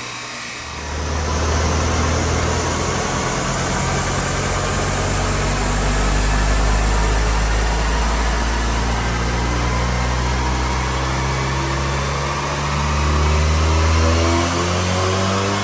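Seat Ibiza's 1.8-litre turbocharged four-cylinder engine pulling hard under load on a rolling road dyno, the revs climbing steadily during a power run. It comes in about a second in, and near the end the note breaks briefly before climbing again.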